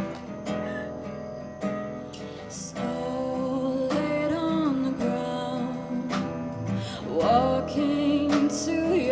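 Music: a song built on strummed acoustic guitar, with sustained notes and a melody line gliding above it.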